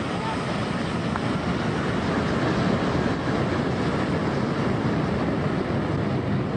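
Airliner's jet engines at high thrust, their exhaust blast hitting the microphone as a loud, steady rush of noise.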